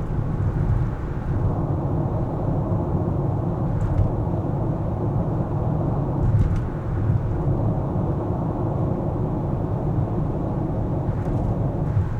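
Steady low rumble of a car being driven: road and engine noise, with a few faint clicks.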